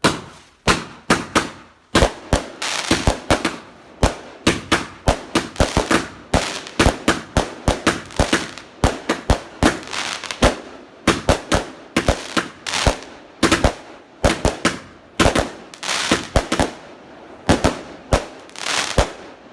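Two Big Bang Mars firework cakes fused to fire together: a fast, uneven volley of sharp bangs, several a second, that stops just before the end.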